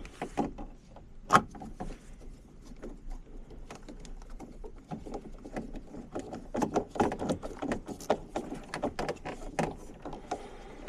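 Scattered clicks and knocks of tools and parts being handled while working on an HVAC unit, with one louder knock about a second and a half in and a busier run of clicks in the second half.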